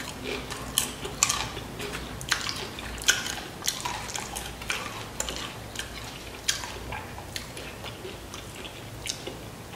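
Chewing of crunchy Flamin' Hot Doritos tortilla chips loaded with cheese and toppings, close to the microphone: irregular crisp crunches, about one a second, thinning out toward the end.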